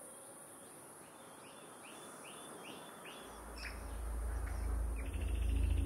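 A bird calls a quick run of about five short, matching chirps over faint outdoor ambience with a steady high hiss. From about three seconds in, a low rumble swells up beneath and grows louder.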